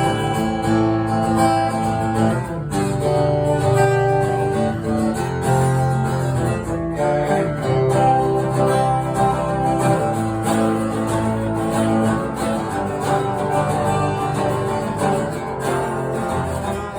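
Acoustic guitar strummed through a chord progression, the instrumental intro of a song.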